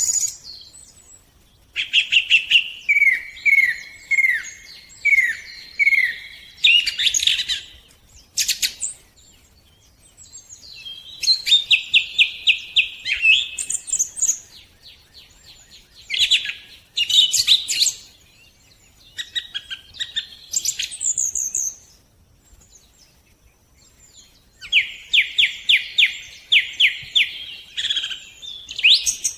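Songbirds singing in separate phrases of quickly repeated chirps and trills, with short pauses between phrases.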